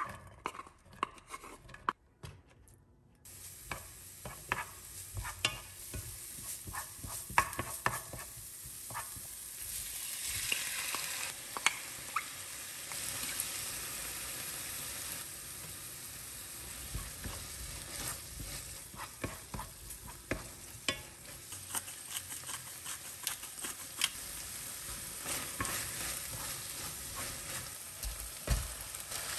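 Chopped onion, green onion, garlic and jokbal frying in oil in a nonstick pan: a steady sizzle that sets in a few seconds in, with frequent clicks and scrapes of a wooden spatula stirring. A dull thump near the end as cooked rice is tipped into the pan.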